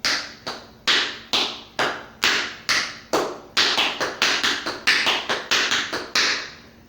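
Tap shoes striking a floor in a run of sharp, ringing taps, about two a second at first, quickening to about three a second from about halfway.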